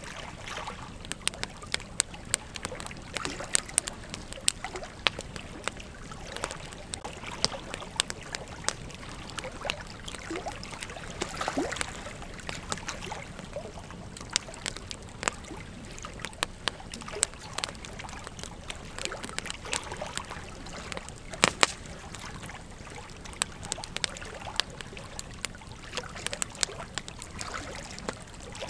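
Campfire burning: wood crackling with irregular sharp pops over a steady hiss, with a loud double pop about three-quarters of the way through.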